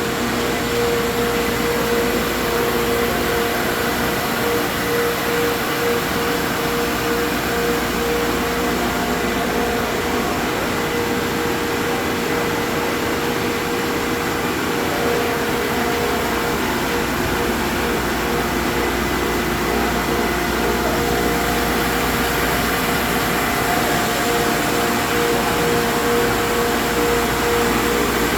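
Abar Ipsen 2-bar vacuum furnace running: a steady mechanical drone with a constant hum and a faint high whine, a deeper rumble coming in about halfway through.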